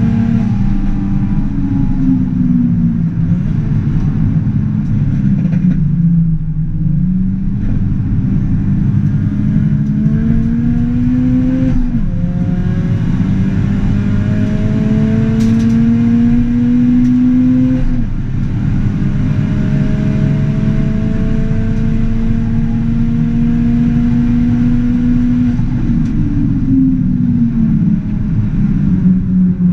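Ford Fiesta ST180's turbocharged 1.6 EcoBoost four-cylinder heard from inside the cabin while lapping: the engine note climbs under throttle and drops sharply at upshifts or lift-offs about 12 and 18 seconds in. It holds steady for a stretch, then gives a few quick rises and falls near the end, like downshifts with throttle blips.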